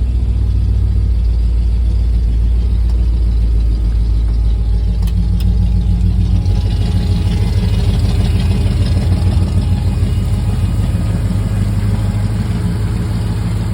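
A fuel-injected 460 big-block Ford V8 idling through long-tube headers and glass-pack mufflers with a steady low rumble. About six and a half seconds in, the tone of the idle shifts.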